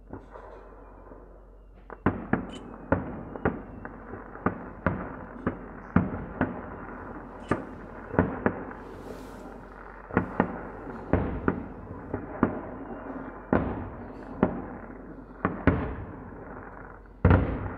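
Aerial firework shells bursting in a rapid string of booms, roughly two a second, each trailing off in an echo. The booms start about two seconds in, and the loudest comes near the end.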